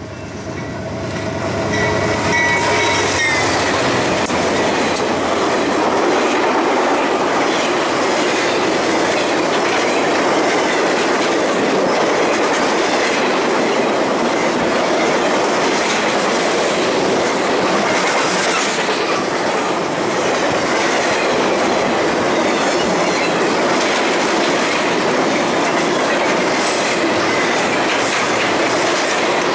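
A train passing close by: a horn's last notes die away over the first few seconds as the rolling noise builds, then a steady, loud clatter of wheels over the rails, with some wheel squeal.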